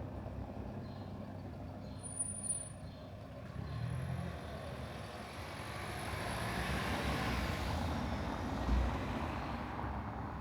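Road traffic: a vehicle passing, its noise swelling and fading, with a brief high-pitched squeal about two seconds in.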